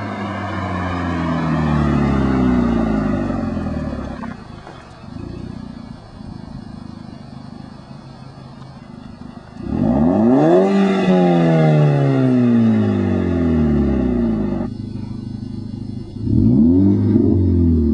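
VW Mk5 GTI's 2.0-litre turbocharged four-cylinder sounding through a 3-inch turbo-back exhaust. The revs fall back to idle and it idles for a few seconds. About ten seconds in, a sharp throttle blip sends the revs up and they fall away slowly; two quick blips follow near the end.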